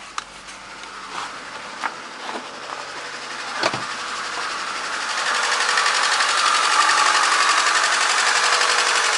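VAZ 124 16-valve engine running with a fast, even mechanical clatter, misfiring on one cylinder, which the owner puts down to an ignition coil or spark plug. A few sharp clicks come in the first seconds, and the clatter grows louder about halfway through.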